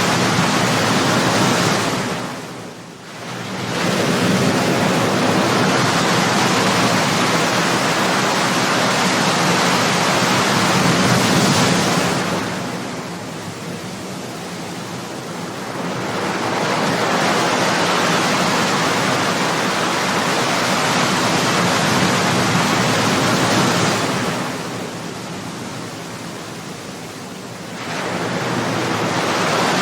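Ocean waves breaking on a shore: a continuous wash of surf that eases off and builds again about every twelve seconds.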